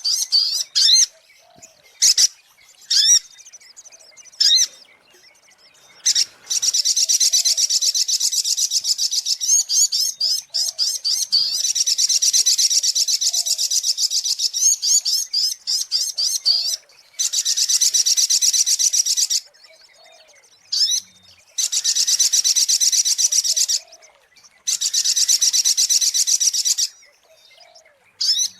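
Sogok ontong, the little spiderhunter, singing high-pitched: a few short, sharp calls, then from about six seconds in a run of long, rapid trills of two to four seconds each with brief pauses between them.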